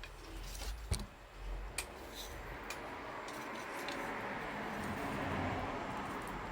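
Wood fire crackling, with a few sharp pops over a steady rushing hiss that grows a little louder about halfway through.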